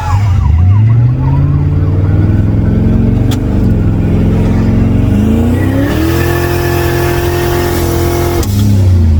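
Turbocharged Lincoln Town Car V8 accelerating hard on street tyres, its note climbing in stages and then holding steady under a rising hiss. About eight seconds in, the throttle lifts and the engine note drops suddenly.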